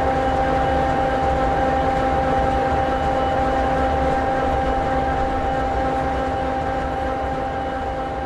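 EMD 16-710G3B sixteen-cylinder two-stroke diesel in an SD60E locomotive idling steadily: a low rumble with a steady whine on top, beginning to fade slightly near the end.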